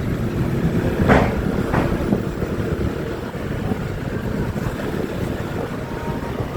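Motorbike running along the road with wind buffeting the microphone, heard from the pillion seat, with two short louder rushes of noise about one and two seconds in.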